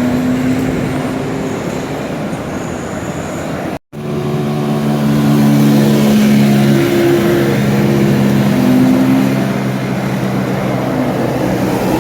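A bus passing close on the road, with engine and road noise. A brief silent gap comes just before four seconds in. After it the sound is louder, with a steady pitched drone that holds several tones and shifts pitch a few times.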